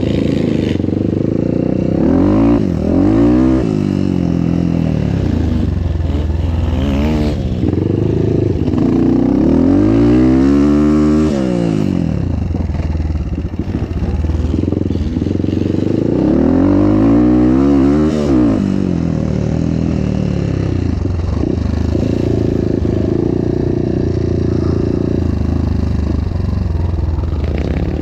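Motorcycle engine revving up and falling back several times as it is ridden around a motocross track.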